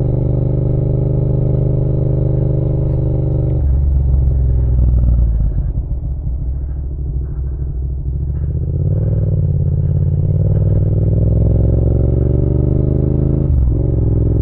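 Yamaha MT-07's parallel-twin engine under way: steady at first, it drops off and quietens a few seconds in, then pulls back up with a rising pitch through a gear and shifts up near the end.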